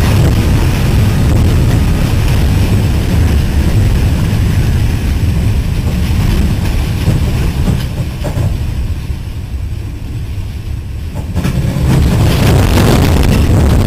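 Freight train wagons rolling past with a heavy, continuous rumble of wheels on rail. It eases off for a couple of seconds past the middle, then grows loud again.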